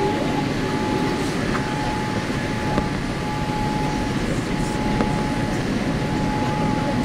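Steady roar of cabin noise inside a Boeing 787-8 Dreamliner airliner, with a thin steady whine and a few faint clicks.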